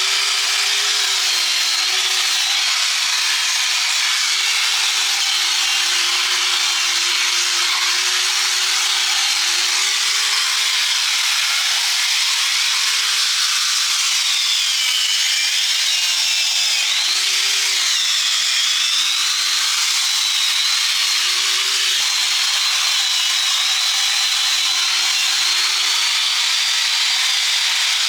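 Handheld electric power tool grinding on metal without a break, a steady hiss over the motor's whine. The motor pitch sags and recovers several times around the middle, as the tool is pressed harder into the work.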